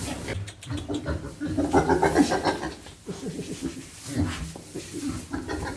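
Pigs grunting in a busy, irregular run of short calls, loudest about two seconds in.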